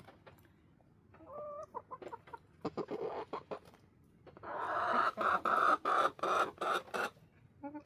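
Backyard hens clucking: a short call, a few clucks, then a louder run of rapid repeated clucks in the second half.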